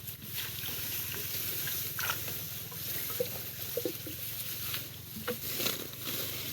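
Water splashing and sloshing in short irregular spells, with small knocks, as an eel trap is handled and set in shallow water.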